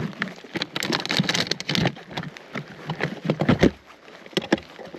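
Raindrops striking close to the microphone: irregular sharp taps and crackles in clusters, loudest in the first two seconds and again around three and a half seconds in.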